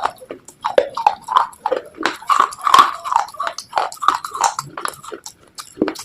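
Brittle slate pieces being bitten and chewed up close to the microphone: an irregular run of sharp crunches and crackles.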